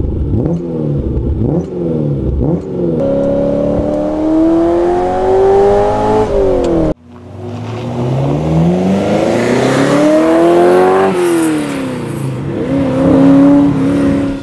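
Ferrari 308's V8 through a newly remade stainless exhaust: a few quick throttle blips, then revving up with a long climbing pitch. After an abrupt cut it climbs again, drops back as the throttle is lifted, and rises once more near the end.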